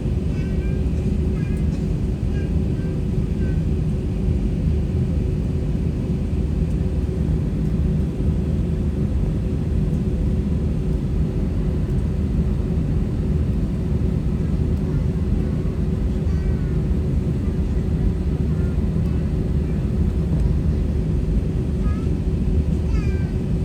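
Steady engine and airframe rumble inside the cabin of an Airbus A320-200, with a steady low hum riding over it and no change in level.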